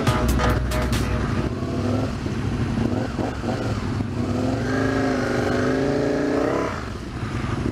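A few seconds of music end about a second in, giving way to a 2005 Aprilia RSV 1000 Tuono's V-twin engine running under way. Its pitch climbs steadily as the bike accelerates through a gear, then drops shortly before the end.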